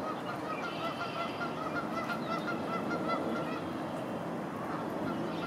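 A quick series of short bird calls, about seven a second, fading out a little after halfway, over a steady hiss of rain.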